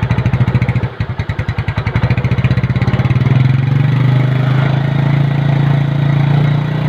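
Small motorcycle engine running through its stock factory exhaust, with no modification fitted. It idles with a fast pulsing beat, then about three seconds in grows louder and steadier as the throttle is held open a little.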